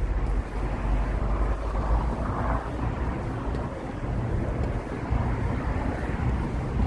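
City street ambience: a steady low rumble of passing traffic, with wind buffeting the microphone.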